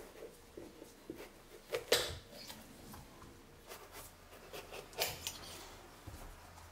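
A few light clicks and knocks of small objects being handled, the clearest three at the start, just before two seconds in and about five seconds in, with soft rubbing between them.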